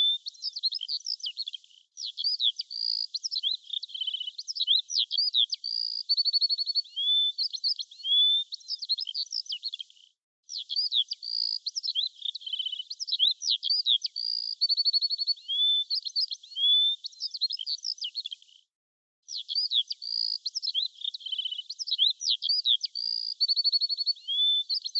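A songbird singing a fast, varied song of chirps, whistled sweeps and rapid trills. It breaks off into abrupt silences about two, ten and nineteen seconds in, and the same sequence of phrases repeats after each gap, as in a looped recording.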